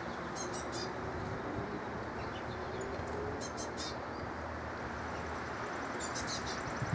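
Songbirds chirping in three short bursts of high notes, about half a second in, midway, and near the end, over a steady low outdoor background hum.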